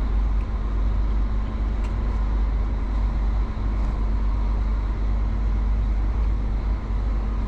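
Forage chopper's engine running steadily, a constant low drone with a steady hum, heard from inside the cab.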